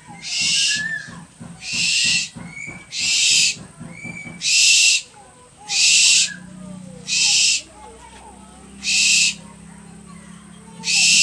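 An owl giving harsh, hissing screeches, eight in a row, each about half a second long and a second or two apart.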